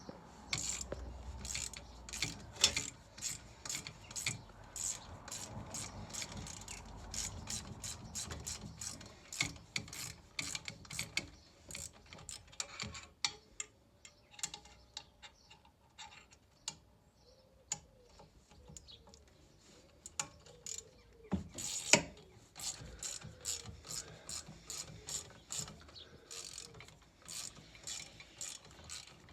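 Ratchet spanner clicking in quick runs as the large bolts holding a stairlift's front plate are undone, with a couple of sharper metal knocks.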